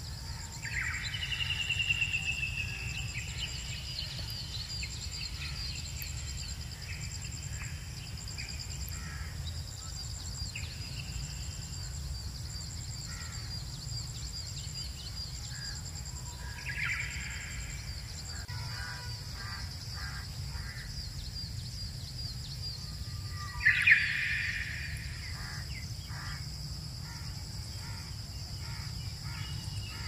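Outdoor field ambience: a steady high-pitched drone over a low rumble, with harsh bird calls three times, the loudest near the end.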